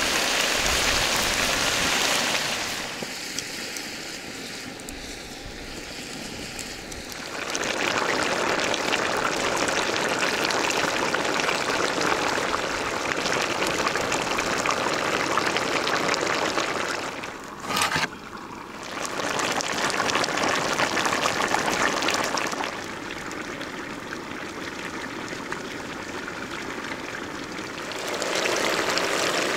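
Chicken hearts and livers sizzling as they fry in a large pan: a steady hiss that comes in loud stretches with quieter gaps between them. A short sharp knock cuts in about eighteen seconds in.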